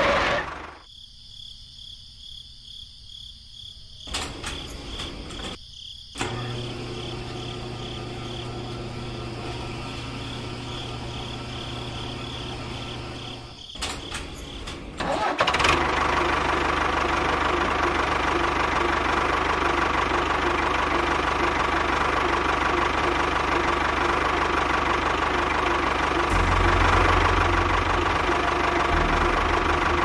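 Tractor engine running at idle in edited stretches. It is quieter for the first few seconds, steps up about 6 seconds in, and from about halfway through it runs louder and steady.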